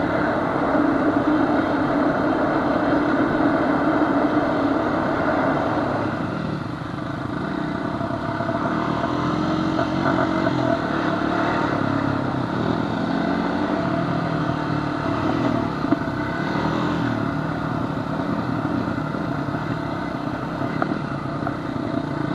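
Honda FourTrax ATV engine running steadily under way on a trail, easing off about six seconds in, then rising and falling in pitch with the throttle.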